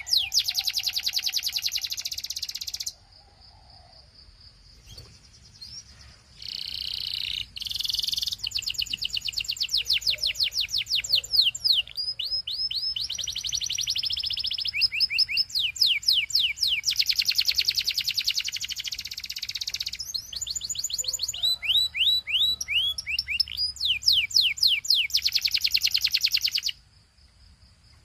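Male domestic canary singing in long, fast trills of repeated down-slurred notes and buzzy rolls. The song pauses for a few seconds early on and stops again near the end.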